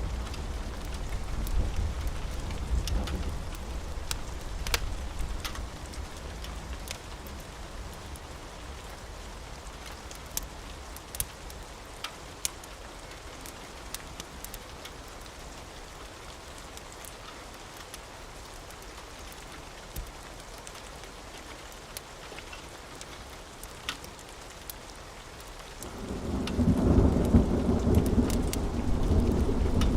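Steady rain with scattered sharp crackles from a wood fire. A low thunder rumble fades out over the first few seconds, and a loud roll of thunder starts near the end.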